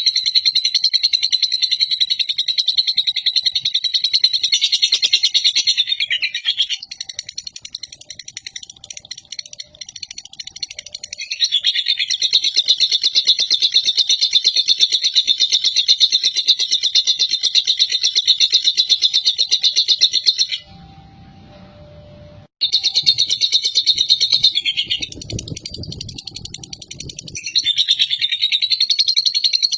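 Lovebird's long 'ngekek' chatter: a rapid, high, unbroken trill held in runs of several seconds. It breaks off into quieter stretches a few times and drops out briefly about two-thirds through.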